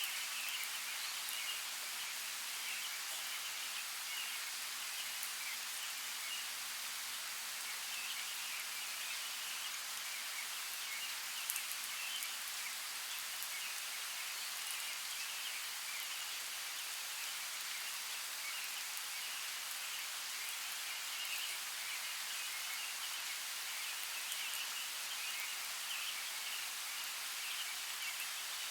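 Steady hiss of flowing creek water, with one brief click about eleven seconds in.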